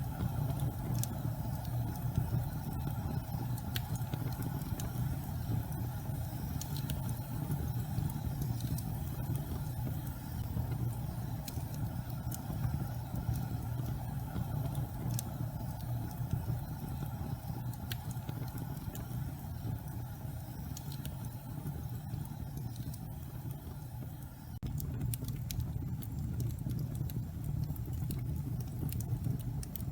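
Fireplace fire burning with a steady low rumble and scattered faint crackles, which come more thickly near the end.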